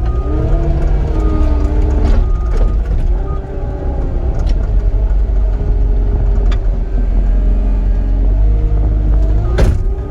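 Engine running steadily under load, its pitch drifting as the revs change, with a few sharp knocks along the way and a loud one near the end.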